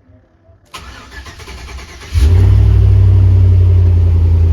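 Truck engine cranked over by the starter for about a second and a half, then catching about two seconds in and running steadily and loud. It is a first start after the truck has sat a while.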